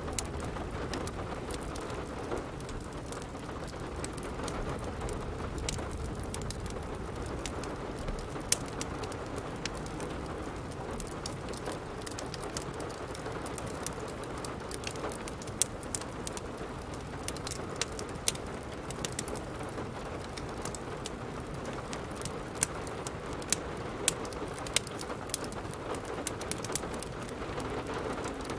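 Steady rain falling, mixed with a wood fire crackling, with sharp irregular pops scattered throughout.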